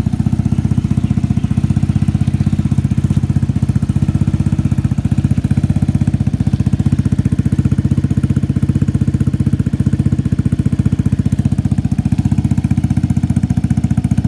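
Vespa automatic scooter's single-cylinder four-stroke engine idling steadily through a Triton Marves aftermarket exhaust, a carbon-fibre and stainless-steel muffler, with an even, rapid pulse.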